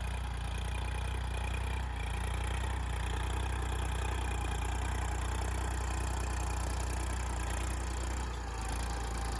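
Tractor engine running steadily at an even speed, a low, constant drone.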